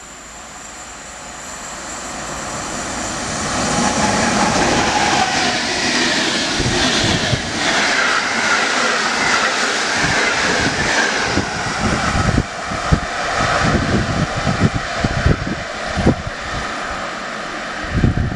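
An electric-hauled passenger train approaches and runs through a station at speed. It is a rising rush of noise for the first few seconds. Then, as the carriages go past, wheels clack irregularly over the rail joints.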